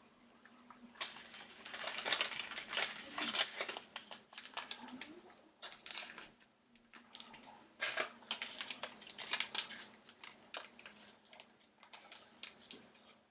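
Plastic card packaging crinkling and rustling as trading cards are handled, in two busy stretches with many small crackles and clicks.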